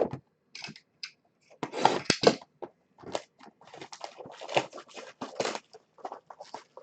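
Plastic packaging crinkling and crackling in irregular bursts as it is handled and opened, typical of unwrapping trading-card packs.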